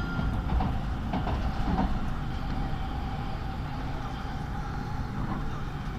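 Tokaido Shinkansen train running, heard from inside the passenger car: a steady low rumble with a faint steady hum and a few light clicks from the running gear.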